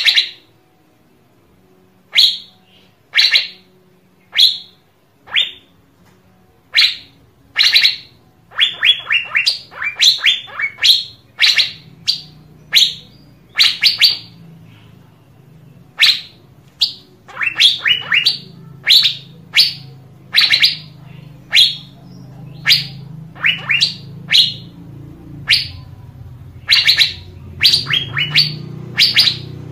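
Asian fairy-bluebird calling: short, sharp, high notes repeated about once a second, sometimes in quick runs of three or four. A low background hum grows louder in the second half.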